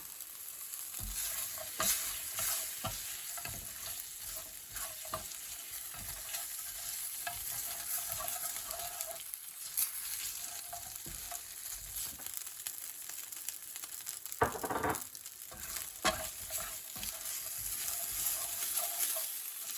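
Fried chicken pieces sizzling in hot oil in a pan while being stirred, with frequent short scrapes and clicks of the utensil against the pan.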